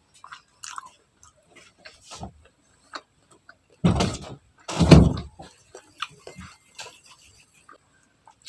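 Close-miked chewing and biting of street food: scattered small wet clicks and crackles of the mouth, with two louder bursts about four and five seconds in.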